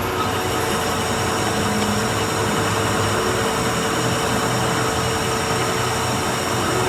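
A machine tool running steadily at constant speed: an even mechanical hum with several steady whining tones over a noisy running sound.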